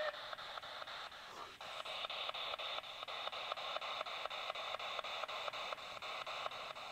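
Ghost box (spirit box) radio scanner sweeping through stations: thin radio static chopped into short, evenly spaced steps at about five or six a second.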